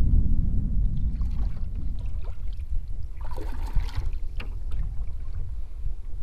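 Canoe paddle strokes through the water, the loudest a swishing splash about three seconds in, over a steady low rumble of wind on the microphone.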